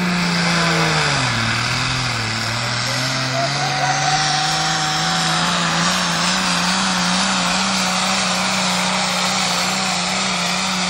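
Modified turbo-diesel tractor engine running hard on a fast-pulling run. Its pitch sags about a second in, then climbs slowly and steadily, with a broad rushing noise over it.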